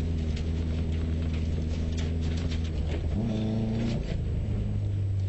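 Subaru rally car's engine running steadily at low revs after the stage finish, with scattered short clicks. A brief higher tone joins about three seconds in.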